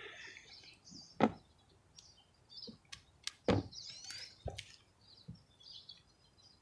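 A handful of sharp knocks and clicks from handling the chainsaw's bar and side cover as it is fitted back on, the loudest about a second in and at about three and a half seconds. Birds chirp faintly in the background.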